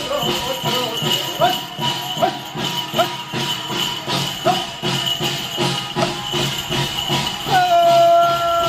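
Korean shamanic ritual music: a shaman's hand bells jingling steadily over regular drum beats, with a single high note held near the end.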